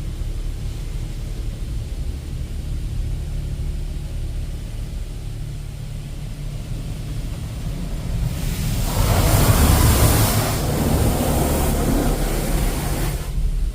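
Touch-free monorail car wash heard from inside the car: a steady low rumble of the wash machinery, then a loud hiss of high-pressure water spray hitting the car, starting about eight seconds in and cutting off sharply some five seconds later.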